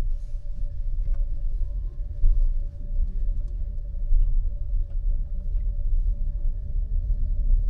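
A car driving, with a steady low rumble of engine and road noise and a faint constant hum, broken by a few light clicks.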